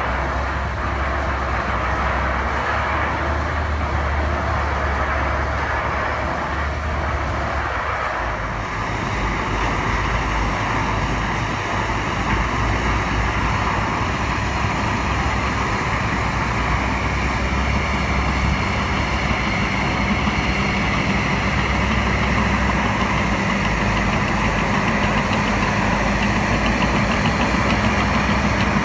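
Engine of heavy earth-moving equipment running steadily, with a dense rushing noise over it. The sound changes character about 8 seconds in, and a steady low hum comes in during the second half.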